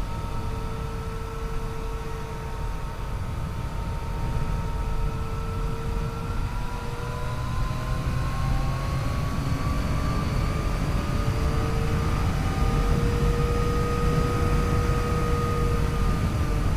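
Yamaha FJ-09 motorcycle's three-cylinder engine running under way, over a steady rushing noise. The engine's pitch climbs slowly through the middle as the bike gathers speed, then eases a little near the end.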